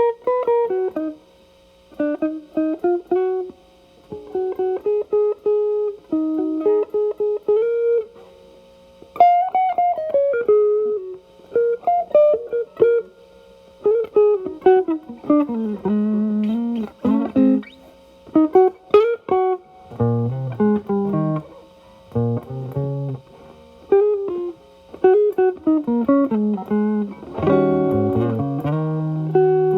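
Telecaster electric guitar through an E.W.S. Brute Drive pedal into a Marshall Valvestate amp's drive channel, with the guitar's volume rolled back so the overdrive cleans up. It plays improvised blues lines of single notes with short pauses, then fuller chords and double stops from about two-thirds of the way in.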